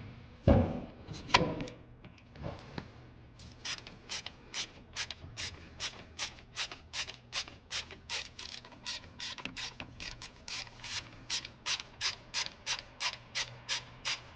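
Two knocks, then a hand ratchet clicking in short, even back-and-forth strokes about two a second, running a fastener in until it is tight.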